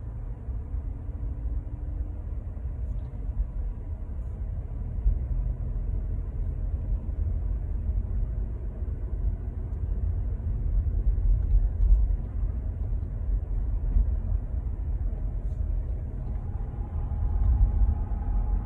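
Steady low rumble of a Skoda Kushaq's cabin with the engine and air conditioning running. A faint steady tone joins in near the end.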